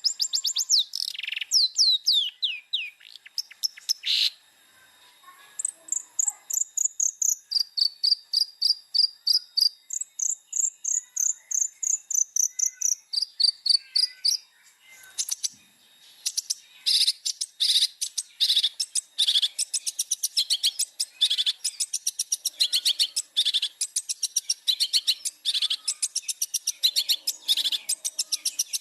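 Long-tailed shrike (cendet) singing a long, varied song. It opens with quick runs of evenly repeated high whistled notes and, after a short pause about halfway, turns to a dense, harsh, rapid chattering.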